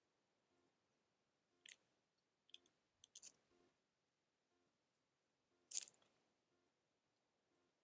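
A handful of short, sharp crunching cracks from an animal eating at a feeder, spaced out over several seconds; the loudest comes near the end, over near silence.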